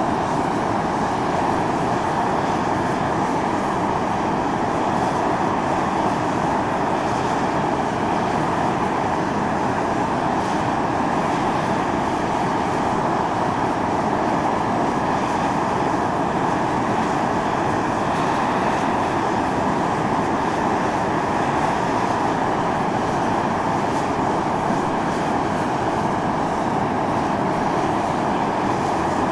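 Volcanic fumarole venting steam: a steady, unbroken rushing hiss, even in level throughout, with its weight in the middle pitches.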